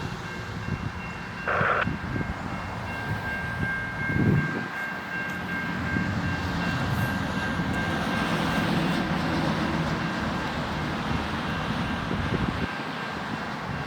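Amtrak passenger train running with a steady rumble, a few faint steady high tones over it and a short burst of noise about one and a half seconds in.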